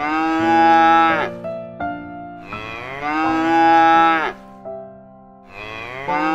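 Cow mooing: long drawn-out moos about every three seconds, each falling in pitch as it ends, with soft music underneath.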